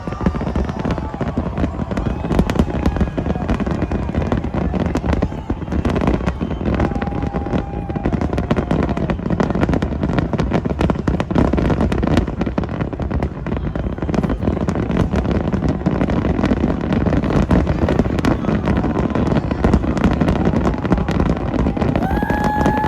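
Aerial fireworks display: a dense, unbroken barrage of bangs and crackles from many shells bursting in quick succession.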